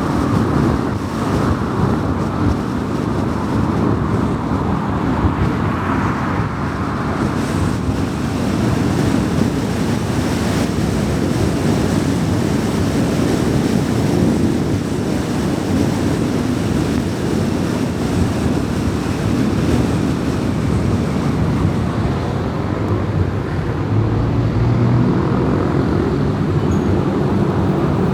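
A car cruising at highway speed: steady tyre and wind noise with no speech. Near the end a low drone comes in under the road noise.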